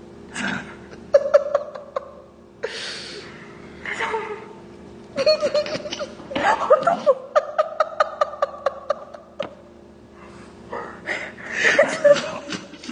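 A woman laughing and giggling in quick, repeated bursts, with pauses between the fits of laughter.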